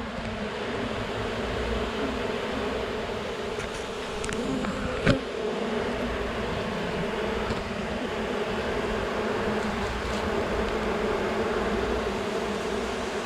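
Honey bees buzzing in a large mass, a steady hum throughout, with one short knock about five seconds in.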